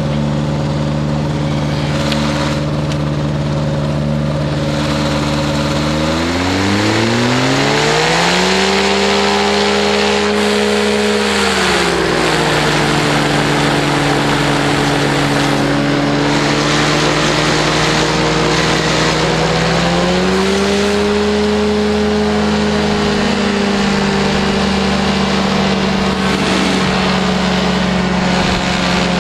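Powered parachute engine and propeller running steadily, revved up for a few seconds about six seconds in, eased back, then brought up to a higher speed again past the twenty-second mark and held there, as the new engine is warmed up in the cold.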